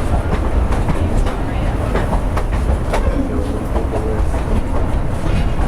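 Durango & Silverton narrow-gauge railroad car rolling along the track: a steady low rumble with irregular clicks and clacks of the wheels over the rail joints.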